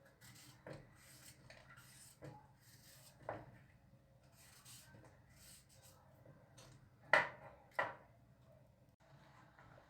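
Kitchen handling sounds: soft rustling and rubbing with scattered light knocks, and two sharper knocks close together about seven seconds in.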